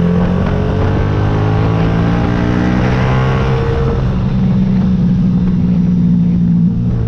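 Yamaha YZF-R125's 125 cc single-cylinder four-stroke engine under way, its pitch climbing as the bike accelerates for the first few seconds and then holding steady at cruise.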